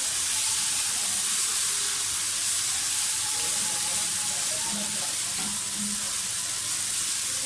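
Chopped onions and ginger-garlic paste frying in hot ghee in a metal pan, giving a steady sizzle as they are stirred with a silicone spatula.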